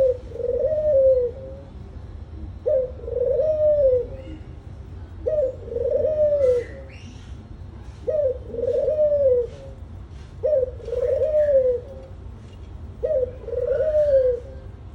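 A dove cooing, repeating the same phrase about every two and a half seconds: a short note followed by a longer coo that rises and falls. Faint chirps of small birds sound in the background.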